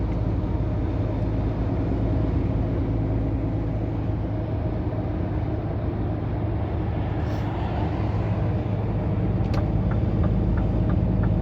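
Steady low drone of a Scania R500 truck's 13-litre straight-six diesel running, heard inside the cab. A regular light ticking starts near the end.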